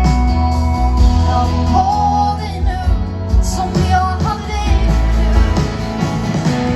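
Live band performance of a pop ballad: a woman sings a phrase over steady bass, drums and guitar, with the band playing on without voice near the end.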